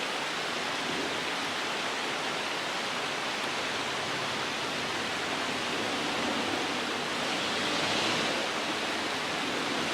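River water rushing steadily, swelling slightly about eight seconds in.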